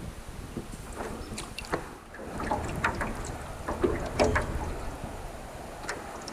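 Aluminum Alumicraft canoe underway: scattered paddle splashes and knocks against the hull, loudest about four seconds in, over a low rumble of wind on the microphone.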